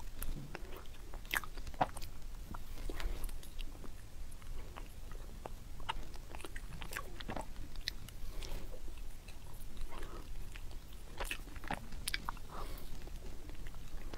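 A person biting and chewing pieces of chocolate cake: irregular soft mouth clicks and smacks while eating.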